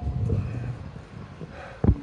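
Hiker's footsteps on bare rock: hard, low thuds, one at the start and a louder one near the end, with a low rumble in between.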